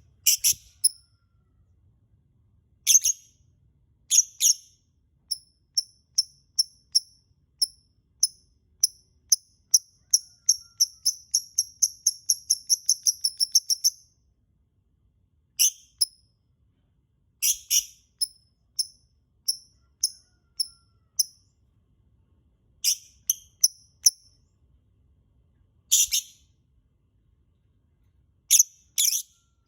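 Lovebird giving sharp, high-pitched chirps. About a third of the way in comes a fast run of chirps that speeds up and stops abruptly, followed by single and paired chirps a second or two apart.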